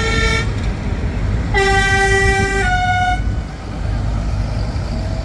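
Tractor horns tooting over the low rumble of passing tractor engines. There is a short toot at the start, then about a second and a half in a longer blast that steps up to a higher note before stopping.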